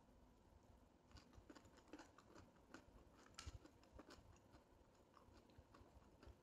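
Faint chewing and crunching of a raw carrot stick: a run of short, crisp crunches, thickest about one to four seconds in.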